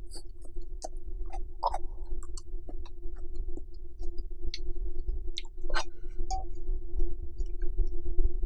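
Close-miked eating sounds: chewing japchae with shiitake mushrooms, with scattered wet mouth clicks and a few louder smacks, over a steady low hum.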